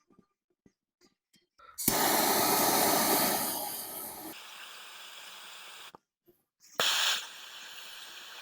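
Handheld gas torch flame hissing while heating copper battery cable ends for soldering. It lights with a sudden loud whoosh and burns steadily more quietly, then shuts off. It is lit again a second later and burns on with a faint thin whistle.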